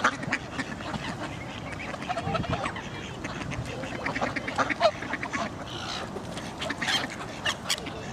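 A flock of ducks quacking, many short calls overlapping one another.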